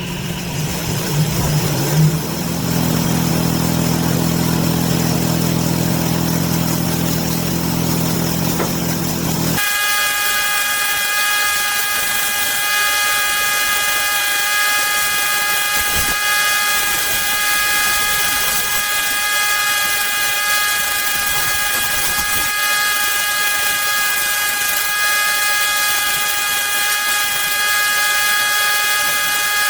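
Electric woodworking power tools running steadily: a lower-pitched motor hum for the first third, then an abrupt change to a tool with a higher, steady multi-tone whine and hiss.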